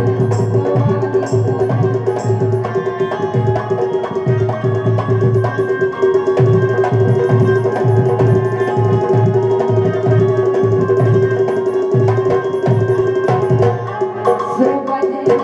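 Instrumental passage of Indian Rai folk music: fast hand-drum strokes under a steady held note.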